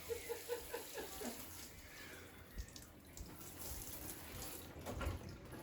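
Water running faintly from a tap or shower, with a few short, soft tonal notes in the first second or so.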